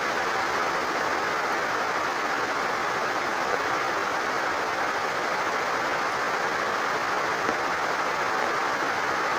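Steady rain with overflowing water running, an even, unbroken hiss.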